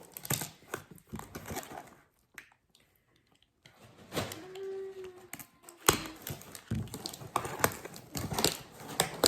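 A cardboard package being cut and opened by hand: irregular clicks, taps and rustles of cardboard and packing, with a short pause partway through.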